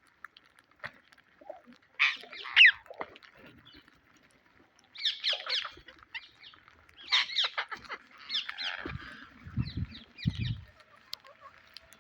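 Psittacula parakeets giving harsh, screechy squawks in short bursts and runs of calls, with two low thuds near the end.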